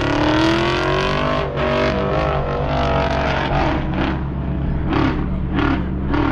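Car engine running steadily, with a rev rising in pitch over the first second or so and several short, sharp bursts in the second half.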